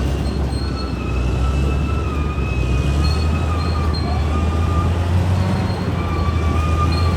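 Bulldozer's diesel engine running with a steady low drone while its steel tracks give a high, wavering squeal.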